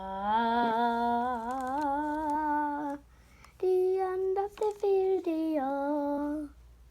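A child's voice humming or singing a wordless tune: one long held note that wavers and edges upward, a short break about three seconds in, then a second, higher phrase that steps down and is held again.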